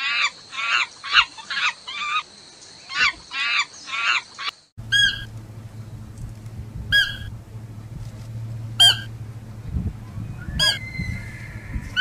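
A quick series of short animal calls, two or three a second, stops suddenly about four and a half seconds in. Then a few short, sharp, high calls come a second or two apart over a steady low hum.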